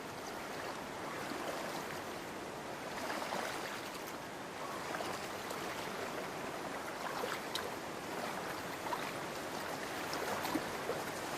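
Shallow stream water running steadily, with a few small splashes.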